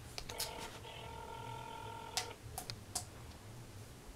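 Telephone ringback tone heard through a phone's speaker: one steady ring of about two seconds that stops, with a few sharp clicks around it.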